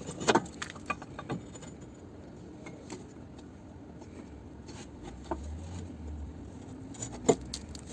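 Metal tool work under a car: a pry bar levering against the gearbox, giving a few sharp metal knocks and clicks, the loudest about a third of a second in and another near the end, with quieter handling noise between.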